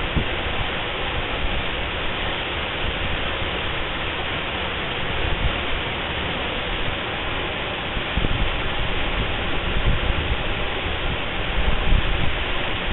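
Waterfall pouring steadily: a loud, dense, unbroken rush of falling water. Irregular low bumps come in over the second half.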